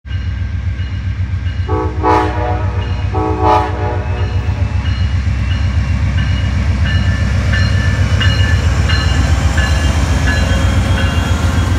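Amtrak GE P42DC Genesis diesel locomotive passing, its engine running with a steady low rumble as it sounds two horn blasts, about two and three and a half seconds in. Short high rings repeat about every two-thirds of a second as the passenger cars roll by.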